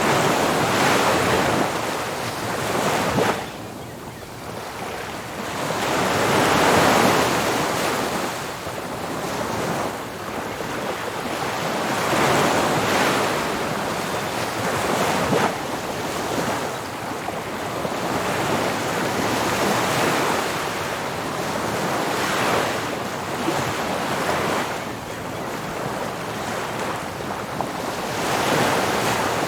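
Ocean surf breaking on a beach: a steady wash of waves that swells and falls back every few seconds, with the loudest surge about seven seconds in.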